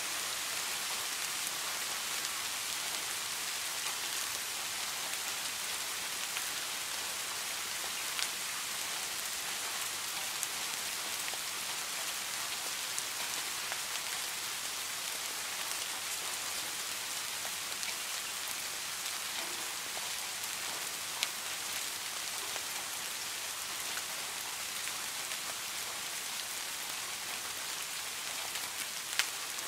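Steady rain falling on wet pine branches, an even hiss with a few sharper drips standing out now and then.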